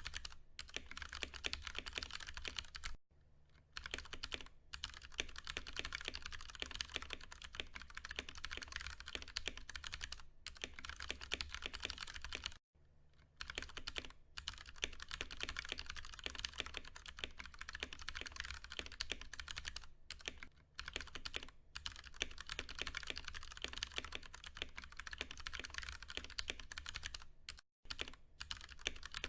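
Typing on a Ducky One 2 Mini mechanical keyboard with Cherry MX Brown tactile switches: a fast, continuous run of keystrokes, broken by brief pauses about three seconds in, near the middle and near the end.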